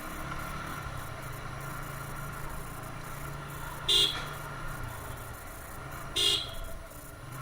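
Motorcycle engine running steadily under way, with two short horn toots a little over two seconds apart, about four and six seconds in.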